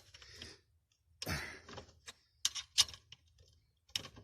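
Sharp clicks and clinks of hand tools and metal parts being handled while working loose a nut and bolt, with a short scraping rustle about a second in.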